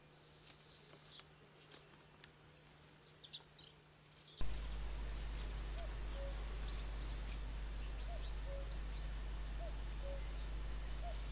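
Faint, high-pitched bird chirps with a few light clicks. About four seconds in, the sound cuts to a steady low hum, with a short low call repeating about once a second and an occasional high chirp.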